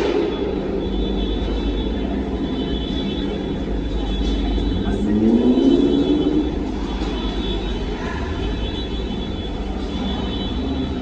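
Car engines rumbling steadily. About five seconds in, one engine rises in pitch and grows louder, as a car revs or accelerates past, then fades back into the rumble.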